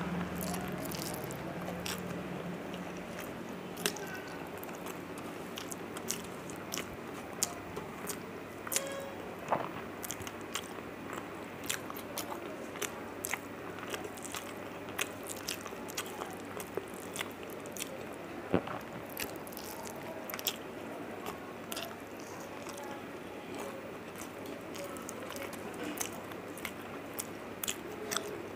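Close-miked eating sounds: a person chewing mouthfuls of rice and fish, with many short, irregular wet mouth clicks, and fingers mixing rice on a steel plate.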